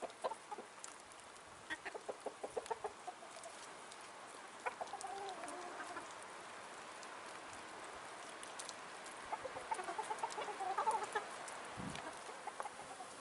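Chickens clucking in short runs of quick calls, a couple of seconds in and again around ten seconds in, over a faint steady hiss.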